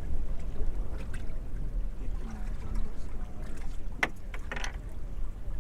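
Steady low rumble of wind and water around a small open boat at sea, with two sharp knocks close together near the end.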